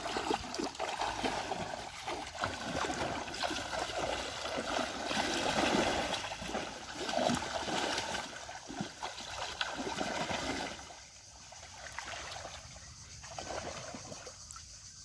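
Pond water splashing and sloshing, busy for about the first ten seconds, then quieter.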